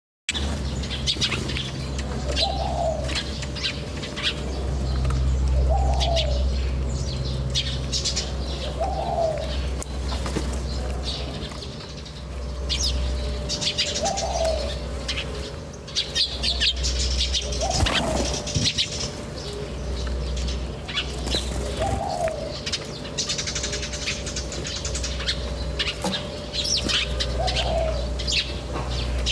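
Many small birds chirping and twittering, with a short lower call repeating every three seconds or so, over a steady low hum.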